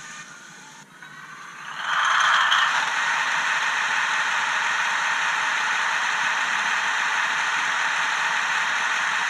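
Diesel engine sound from the BR 225 model locomotive's sound decoder, imitating the original's 12-cylinder MTU engine and played through the model's small loudspeaker. It comes in sharply about two seconds in and then runs steadily, thin and without bass.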